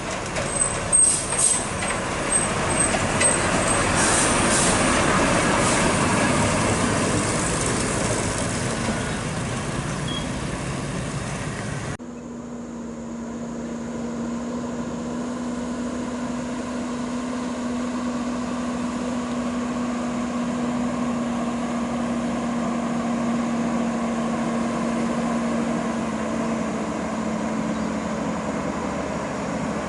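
Heavy truck on the road: loud engine and tyre noise with a few sharp clicks near the start, cutting off abruptly about twelve seconds in. A steadier, quieter engine drone with one held note follows.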